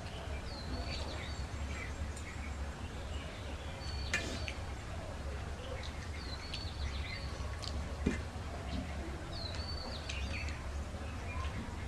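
A bird repeats the same short high call about every three seconds. Under it come soft eating sounds, with hands mixing rice on steel plates and chewing, and two sharp mouth smacks about four and eight seconds in, over a steady low hum.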